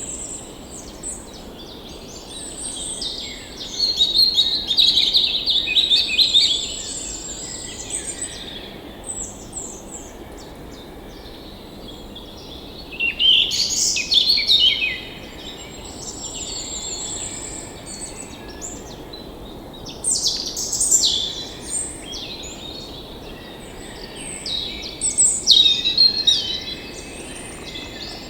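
Songbirds singing and chirping in bursts, loudest about four, thirteen, twenty and twenty-five seconds in, with a high thin trill repeating between the bursts.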